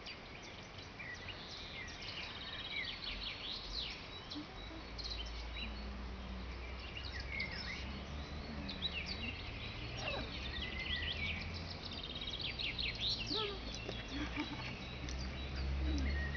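Small birds chirping and twittering in many short, repeated calls, over a low steady rumble that sets in about five seconds in.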